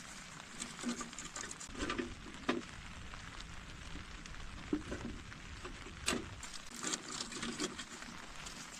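Rain pattering steadily, with several soft knocks and rustles scattered through it, the sharpest about two and a half and six seconds in.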